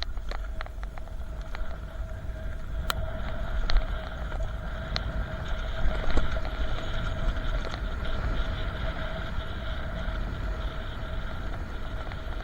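A bicycle ride along a road: steady wind rumble on the microphone with a steady whine over it, and a few sharp ticks.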